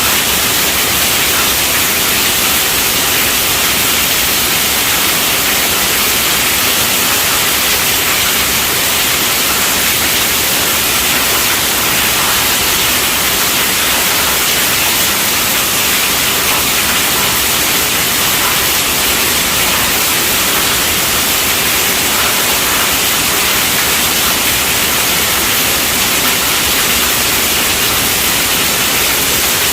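Steady rainfall: a dense, even hiss, heaviest in the high range, with no single drops or thunder standing out and no change throughout.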